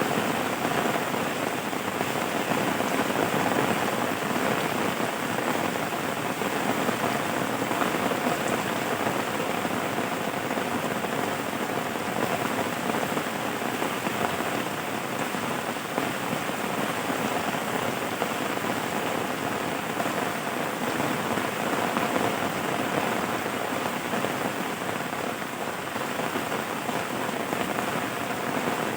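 Steady rain falling on a surface, a dense even patter with no breaks.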